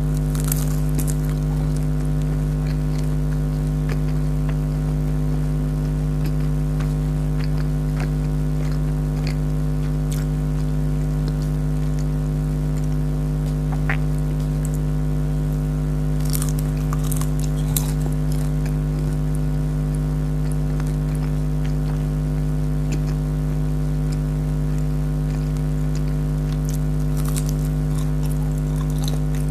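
Close-up crunching and chewing of jalebi, a crisp syrup-soaked fried sweet, in scattered bites, clustered near the start, around the middle and near the end. A loud steady hum runs underneath throughout.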